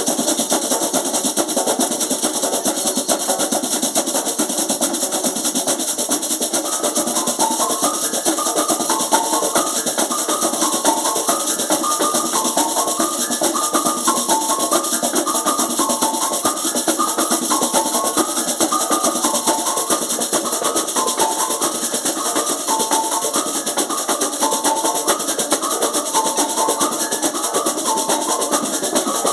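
Percussion ensemble playing a dense, steady drum rhythm. About seven seconds in, a high repeating figure of short pitched notes joins over the drums.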